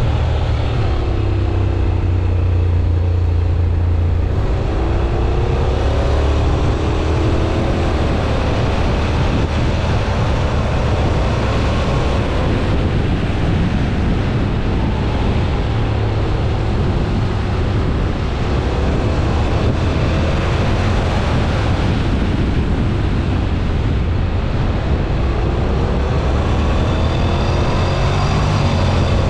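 Honda NC750X's parallel-twin engine running hard at track speed, its pitch rising and falling over and over as the DCT gearbox changes gear through the corners, over a heavy low rumble of wind on the microphone.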